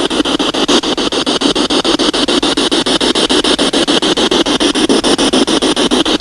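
Spirit box scanning through radio frequencies: a steady, rapid stutter of static, about ten chops a second, with no clear voice coming through.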